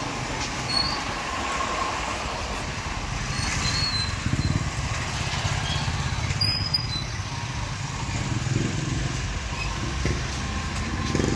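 Motorcycle tricycle engine idling nearby: a low, steady rumble.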